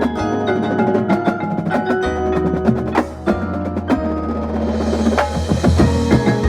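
Marching drumline with front-ensemble mallet keyboards performing: quick drum strokes over held marimba- and bell-like notes and a sustained low bass tone, with a high shimmering swell building about five seconds in.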